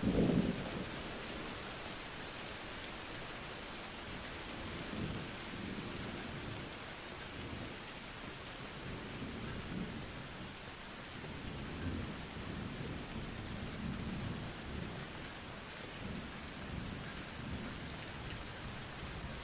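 Thunderstorm: steady rain throughout, with a loud burst of thunder right at the start and low rolling rumbles of thunder coming and going after it.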